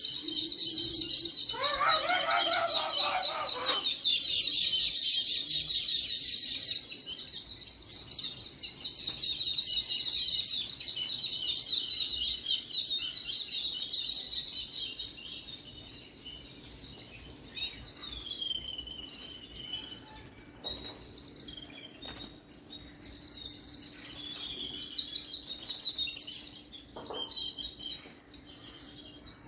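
A group of small pet birds chirping and twittering continuously, with a lower, harsher call about two seconds in. The chirping thins out and grows quieter in the second half.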